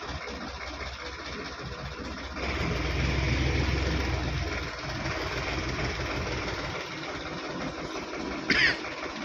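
Sonalika DI 750 tractor engine running steadily, louder for about two seconds in the middle, with a brief high squeak near the end.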